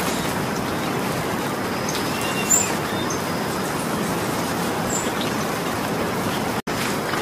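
Steady rain falling, an even hiss of drops, with a short chirp about two and a half seconds in. The sound drops out for a split second near the end.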